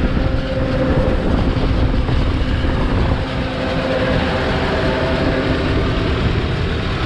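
A heavy vehicle engine running steadily under a loud low rumble.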